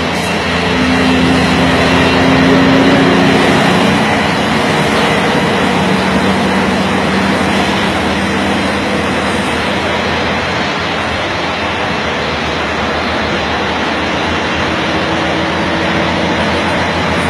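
Scania R440 truck's six-cylinder diesel engine running under a steady, loud roar of road and wind noise. A low engine hum in it drops in pitch a few seconds in and rises again near the end.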